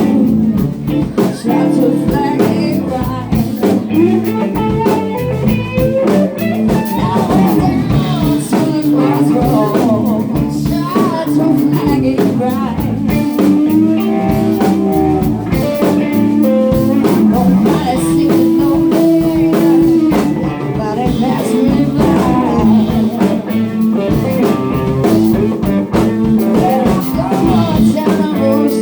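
Live band playing a blues-rock jam: electric guitars, bass guitar and drums, with a melodic line wavering above the band.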